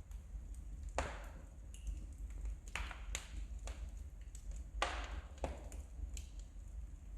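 Wood fire crackling in a fireplace: irregular sharp pops and snaps, about seven of them, over a faint steady low hum.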